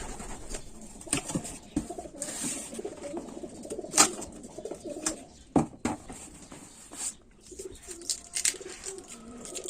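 Racing pigeons cooing, with a few sharp clicks and knocks in between.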